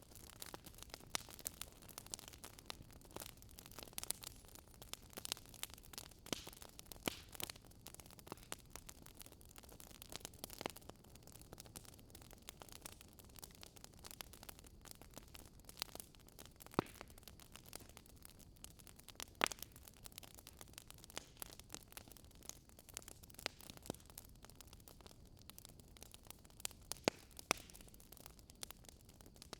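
Wood fire crackling: irregular sharp snaps and pops over a soft steady hiss, with a few louder pops scattered through.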